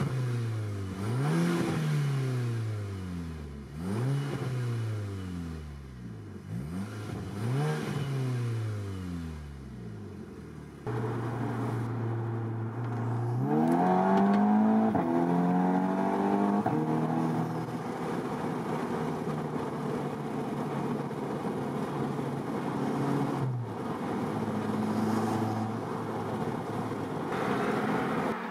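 Volkswagen Golf 6R's APR Stage 2+ tuned turbocharged four-cylinder through a Milltek Race exhaust, revved in a series of sharp blips while parked, each rising quickly and dropping back. Heard from inside the cabin, it then idles steadily, pulls through a rising acceleration, and settles into a steady cruise.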